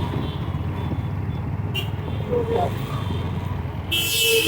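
Low, muffled rumble of vehicle engines and road noise while riding in traffic, with a brief sharp click a little under two seconds in.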